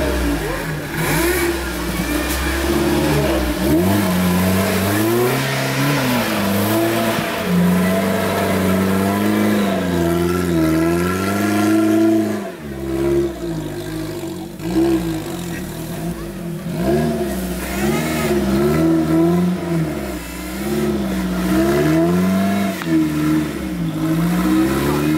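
UAZ off-roader's engine revving hard under load in deep mud, its pitch rising and falling again and again every second or two, with a run of quicker blips of the throttle around the middle.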